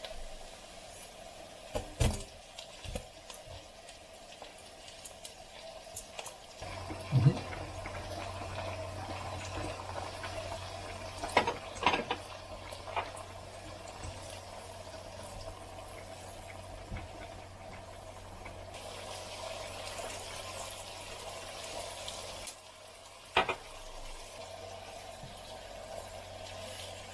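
Kitchen work sounds: a few sharp knocks of utensils or cookware, and a steady low hum with a light watery hiss that starts about seven seconds in and cuts off near the end.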